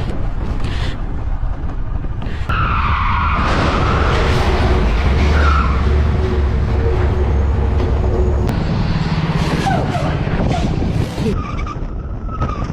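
Motorcycle riding in traffic with a continuous engine and road rumble, and a tyre squeal from hard braking about two and a half seconds in, with shorter squeals later.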